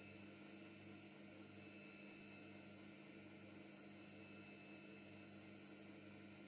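Faint steady electrical hum with a few thin high-pitched tones above it, unchanging throughout.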